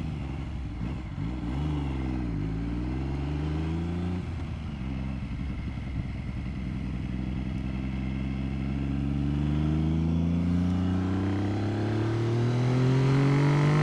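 Triumph 900 triple's three-cylinder engine eases off briefly, then accelerates in one long, steady rise in pitch, getting louder toward the end. Now warmed up, it is pulling better.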